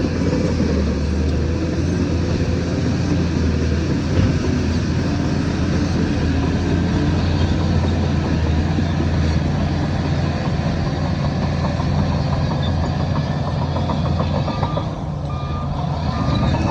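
Heavy diesel earthmoving machinery running steadily under load. Near the end, a reversing alarm beeps a few times.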